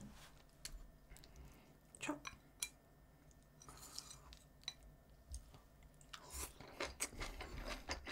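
Faint chewing of food close to the microphone, with scattered short clicks that grow busier near the end.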